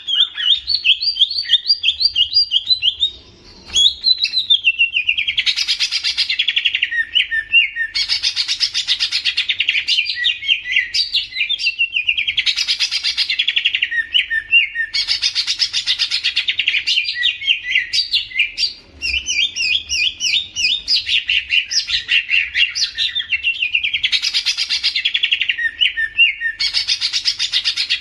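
Cucak ijo (green leafbird) singing a fast, continuous twittering song of rapid chirps, in phrases that swell and recur about every three to four seconds.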